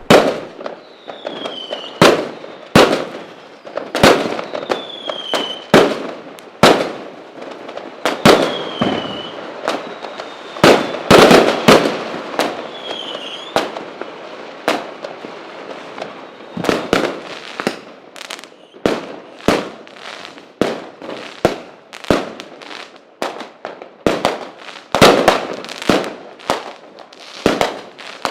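Aerial fireworks display: a rapid barrage of sharp bangs from bursting shells, with crackling between them, and a few short falling whistles in the first half.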